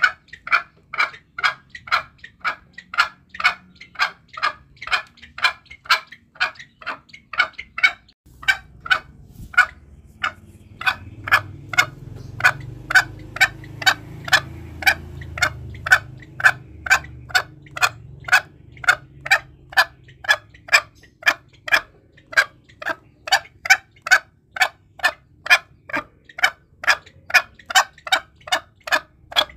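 Green junglefowl calling: short, sharp notes repeated steadily about twice a second, used as a lure call. A faint low rumble sits underneath through the middle stretch.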